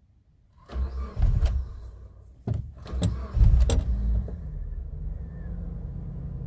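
Suzuki Jimny engine started: it fires with loud rumbling and a few sharp clicks and knocks, then settles about four seconds in to a steady idle. The engine now starts and runs normally.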